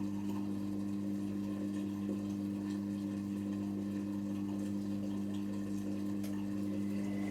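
Hotpoint Extra WMXTF742K washing machine running mid-cycle: a steady electrical hum with water running and trickling inside the machine.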